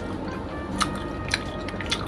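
Background music under close-up eating sounds: chewing with three sharp wet mouth smacks about half a second apart.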